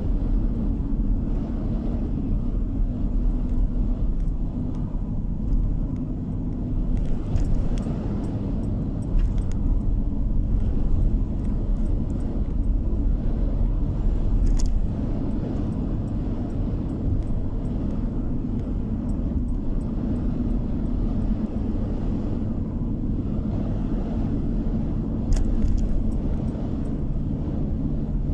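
A car driving along at steady speed, heard from inside the car: a continuous low rumble of tyres on the road and the engine, with a few faint ticks now and then.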